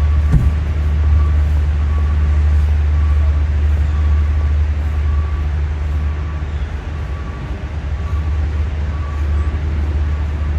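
A steady, loud low rumble with a haze of noise above it and a faint, intermittent high tone, like heavy vehicle or traffic noise.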